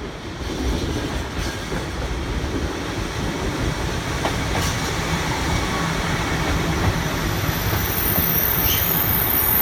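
A JR Hokkaido KiHa 283 series diesel express train draws in, its rumble and rail noise growing steadily louder. A thin high-pitched squeal starts near the end as it slows.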